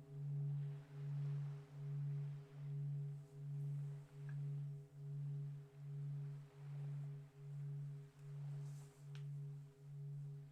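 A singing bowl ringing on after a strike: a low, pulsing tone that wavers about once a second and slowly fades.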